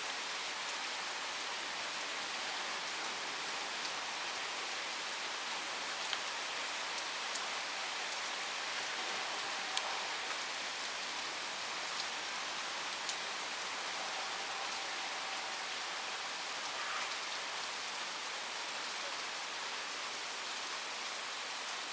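Steady rain falling and hissing on surfaces, with an occasional louder drop or tap.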